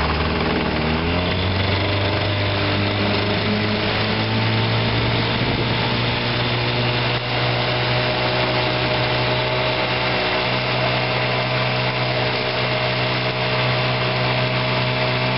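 1958 Johnson AD-12 7.5 hp two-cylinder two-stroke outboard motor running; its pitch rises over the first couple of seconds, then it runs steadily.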